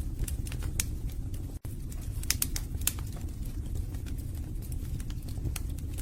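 Wood fire burning in a fireplace: a steady low rumble of flame with sharp crackles and pops from the logs, a few louder pops between about two and three seconds in. The sound cuts out for an instant about a second and a half in.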